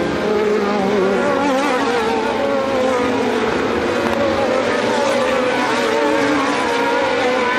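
Several Formula One car engines running at high revs at once, their pitches overlapping and wavering up and down as the cars run on the track.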